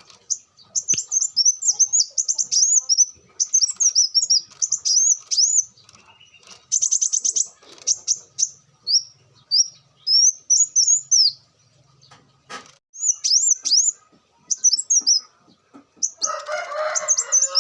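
Kolibri wulung sunbird singing: rapid, high twittering phrases in clusters with short pauses, including a fast buzzy trill about seven seconds in. A brief harsher noise sounds near the end.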